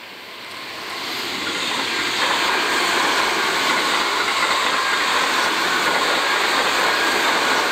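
Seibu 40000-series electric train passing close by, its wheel and track noise growing louder over the first two seconds as it arrives, then running steadily as the cars go past.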